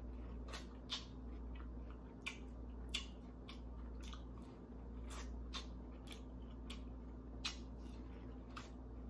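Corn on the cob being bitten and chewed close to the microphone: soft, irregular clicks of kernels breaking and wet mouth sounds, about a dozen sharper clicks spread through, over a steady low hum.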